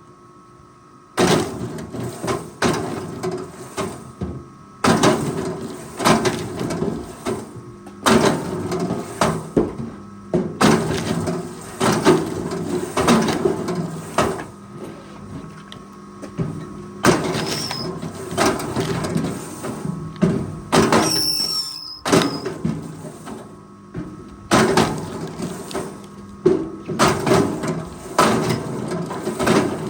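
Forestry machine at work: its engine runs steadily under a rapid, irregular series of loud knocks and clanks, with a brief lull about a second in.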